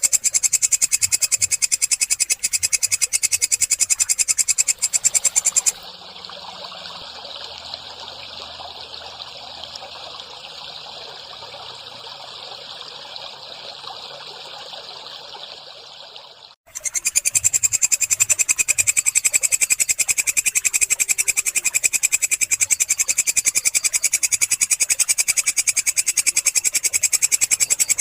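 Walang kecek katydid calling: a loud, rapid, unbroken pulsing trill. About six seconds in it gives way to a quieter, even hiss for some ten seconds, then the trill cuts back in abruptly.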